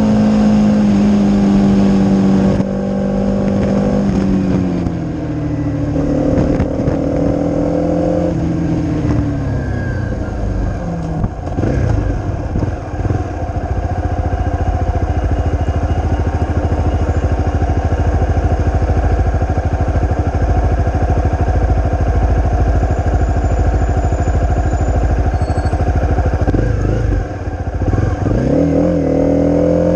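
Honda CRF250 single-cylinder four-stroke engine through a Leo Vince aftermarket exhaust, ridden on the road. It starts at high revs, drops in pitch in steps over the first ten seconds or so, runs low and steady through the middle, and revs up again with rising pitch near the end.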